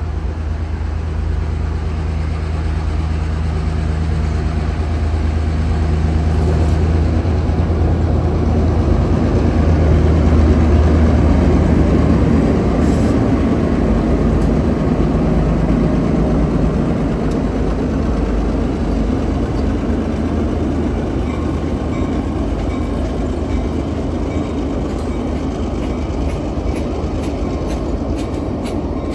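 Passenger train running on the rails with a steady low engine hum, growing louder to a peak about ten seconds in, then easing off a little.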